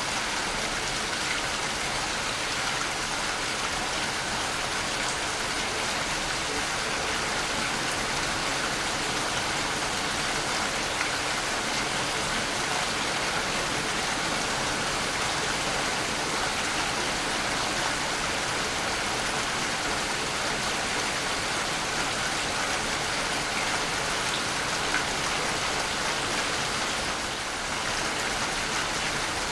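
Waterfall: a steady, even rush of falling water, dipping slightly for a moment near the end.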